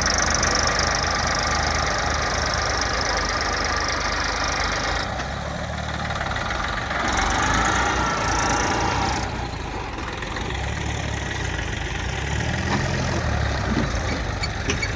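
Tractor diesel engine running at low speed with a steady chug. A high steady whine sits over it for the first five seconds or so and comes back about seven to nine seconds in.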